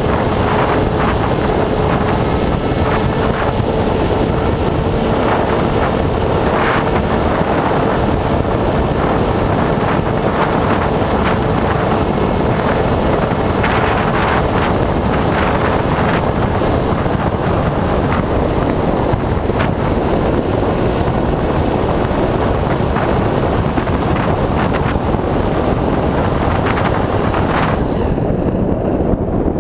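Wind rushing over a camera riding on a flying RC foam plane, mixed with the steady drone of its electric motor and propeller. A thin steady whine runs through the first half, and the hiss turns duller near the end.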